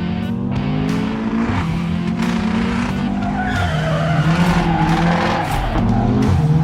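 Race car engine sound effect revving up and shifting through gears, with tyres squealing for a couple of seconds from about three and a half seconds in.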